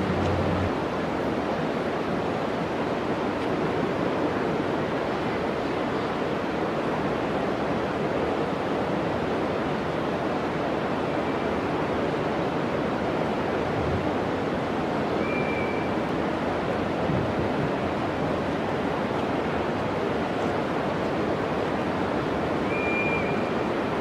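Steady, unbroken roar of a waterfall's falling water, with two brief high chirps about two thirds of the way through and near the end.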